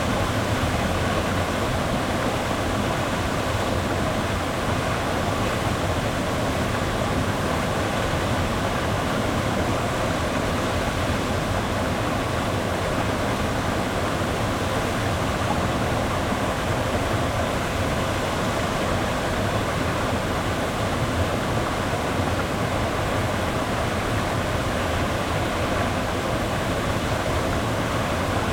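Waterfall: a steady, loud rush of falling water that never lets up.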